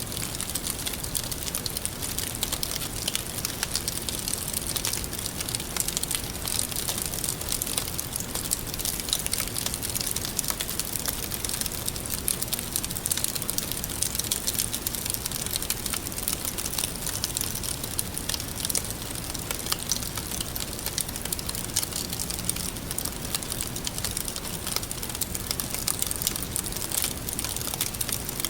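Open fire burning with steady, dense crackling: many small pops and snaps over a soft hiss.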